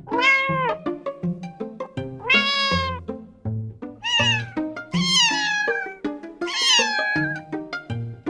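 A cat meowing five times, each meow about a second long, the later ones falling in pitch, over background music with a steady plucked beat.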